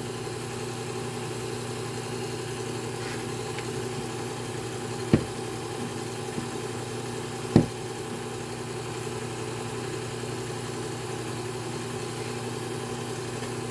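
Belt sharpener's electric motor running steadily with a hum, the belt turning with no blade against it. Two sharp knocks, about five seconds in and again two and a half seconds later.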